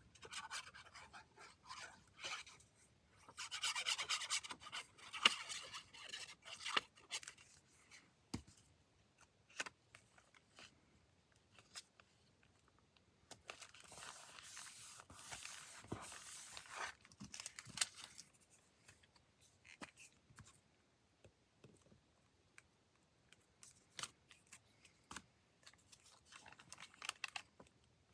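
Paper being handled and rubbed flat by hand: soft rustling and rubbing in two longer bouts, a few seconds in and about halfway through, with scattered light taps and clicks between them.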